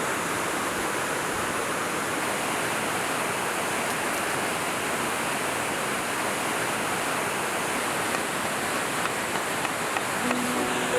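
A mountain river flowing, a steady unbroken rushing of water. A few held music notes come in near the end.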